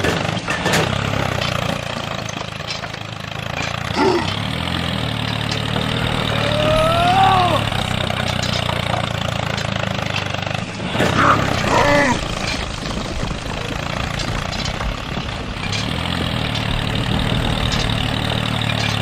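A steady engine-like drone, with a few short voice-like calls that rise and fall in pitch over it.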